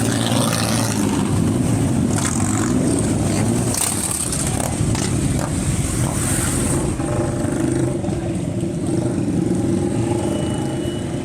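Motorcycle engine running steadily, with the low engine note and road noise filling the sound.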